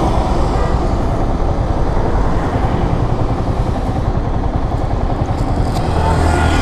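Yamaha R15 V3's single-cylinder engine idling steadily while the motorcycle stands still, a constant low rumble.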